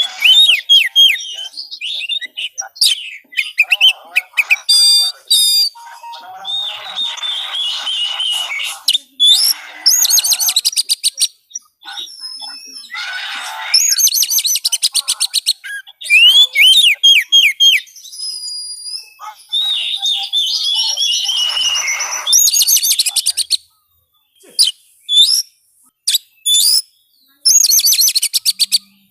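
Oriental magpie-robin (kacer) singing a fast, varied song of loud whistles, sharp chirps and rapid rattling trills, with more pauses between phrases near the end.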